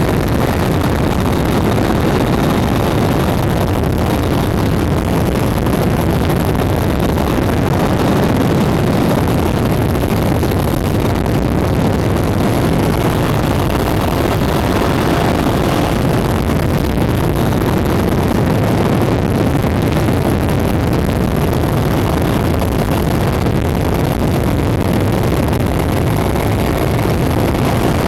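Mi-8 helicopter in flight heard from inside the cabin: a loud, steady drone of turbine engines and rotor that does not change, with a faint high whine above it.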